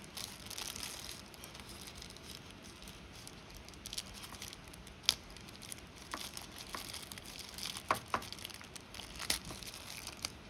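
Small plastic packaging crinkling and rustling as it is handled and opened, with a few sharp clicks and taps between about four and ten seconds in.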